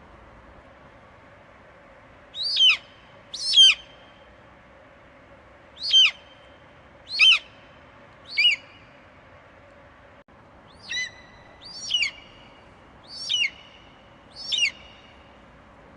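Eagle screeching: about nine short, high, falling calls, each under half a second, in an irregular series with a pause of about two seconds midway, over a faint steady background hiss.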